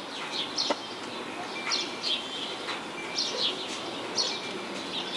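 Small birds chirping in the background: short, high, falling chirps, about two a second.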